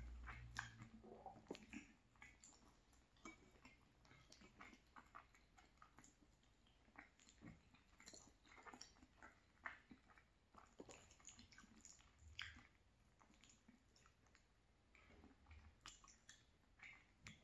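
Faint chewing of a mouthful of cavatappi pasta in creamy tomato sauce: many small, irregular wet mouth clicks.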